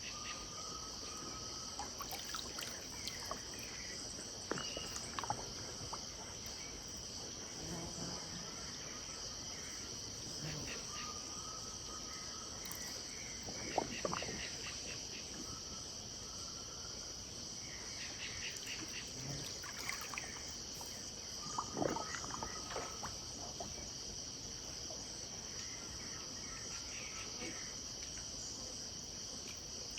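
Steady high-pitched insect chorus at a riverside in the Pantanal, with bird calls scattered over it: short whistled notes now and then, and a few sharper calls that stand out near the middle and about two-thirds of the way through.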